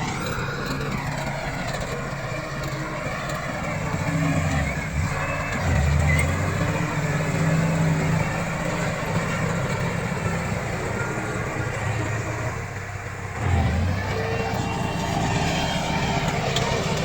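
Komatsu D68 crawler bulldozer working, its diesel engine running continuously under varying load. It grows louder about four seconds in, dips briefly, then surges again near the end.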